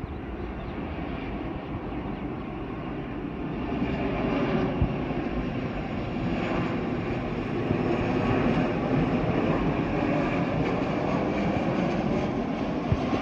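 Jet airliner's engines on landing approach, a steady rushing noise that grows louder about four seconds in as the aircraft passes close.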